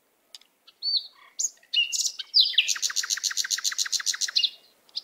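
Birdsong: a few scattered high chirps and short whistles, then a fast, even trill of about eight notes a second that runs for about two seconds before trailing off.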